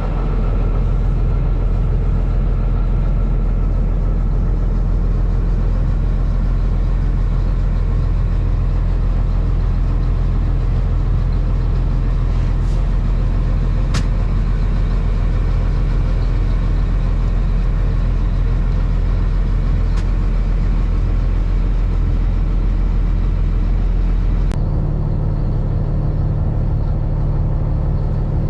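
Fishing boat's engine running steadily with a low, even hum; its note shifts about 24 seconds in.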